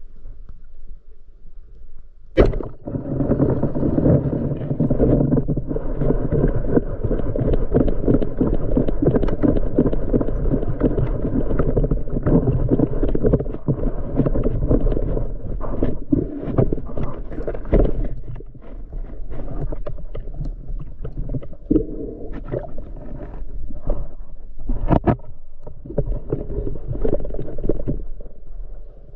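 Muffled water noise heard through a submerged camera housing: a dense rushing and gurgling rumble with frequent sharp knocks and clicks, easing off somewhat about two-thirds of the way through.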